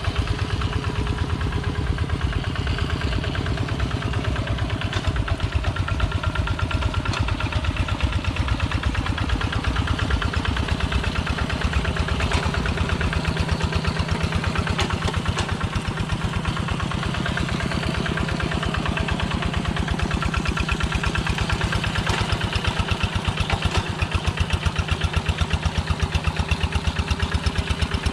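Two-wheel walk-behind tractor's single-cylinder diesel engine running steadily, with an even rapid beat.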